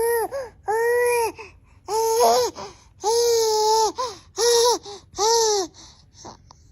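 A baby laughing in a run of about six long, high-pitched bursts, roughly one a second, each with a breathy catch of the breath, dying away near the end.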